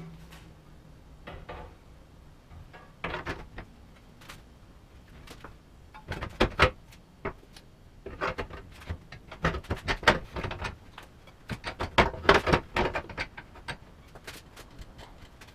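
Irregular metal clanks and knocks from a bench vise being worked on a cast aluminium bash plate, squeezing the plate to close up a crack in it. The knocks are sparse at first and come thick and fast from about six seconds in.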